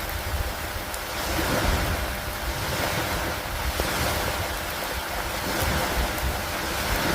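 Steady rain on a wooden dock, a dense even hiss with a low rumble underneath, swelling and easing every couple of seconds.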